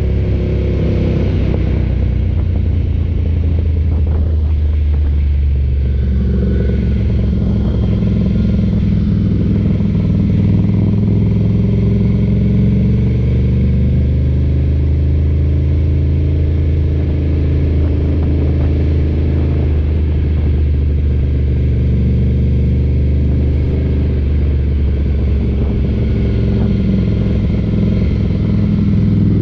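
Ducati motorcycle engine running under way, its note dipping and rising a few times with throttle and gear changes.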